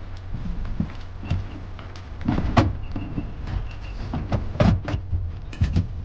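Irregular knocks and thumps on a small boat over a steady low hum, the loudest knocks about two and a half and four and a half seconds in.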